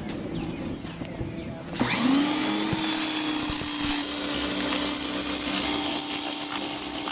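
A small electric-motor machine switches on about two seconds in. Its hum rises quickly to a steady pitch, over a loud, even rush of air.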